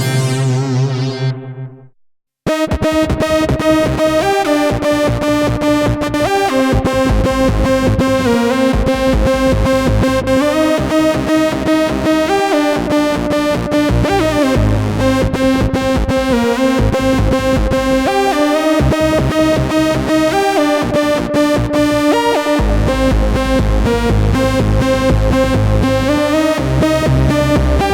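Arturia MatrixBrute analog synthesizer: a sound sliding down in pitch and fading out, a brief silence about two seconds in, then the trance lead patch playing a melody over a fast, even beat.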